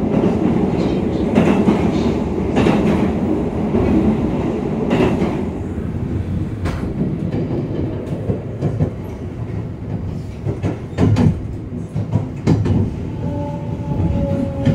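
JR 281 series Haruka limited express heard from inside the carriage: wheels rumbling and clacking over rail joints, louder on the steel truss bridge at first, then quieter with scattered clicks as the train slows into a station. A falling whine begins near the end as it brakes.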